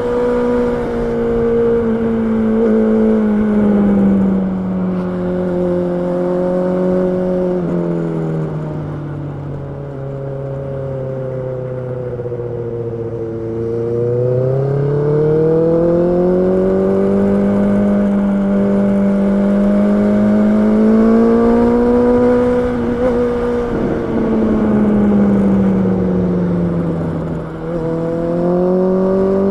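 Honda CB650R's inline-four engine running continuously, its pitch easing down over several seconds about a third of the way in, climbing back about halfway through, then dipping again and rising once more near the end.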